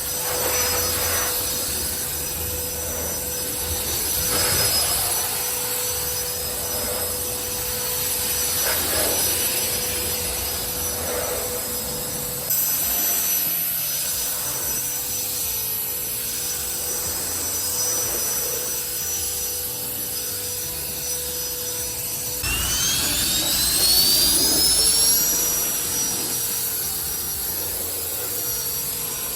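Cordless handheld turbo ducted-fan blower running steadily, a whine over a rush of air, drying a car body. About 22 s in, its whine rises in pitch as the fan spins up.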